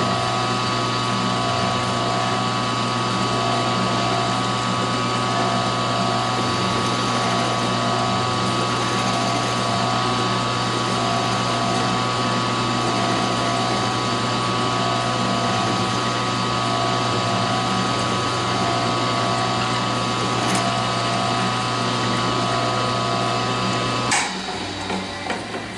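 Electric drill motor running steadily while drilling a hole in a wooden block. The hum and whine hold even, then stop near the end, followed by a few knocks.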